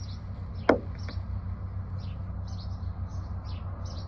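Small birds chirping in short repeated notes, with one sharp click about a second in, over a steady low hum.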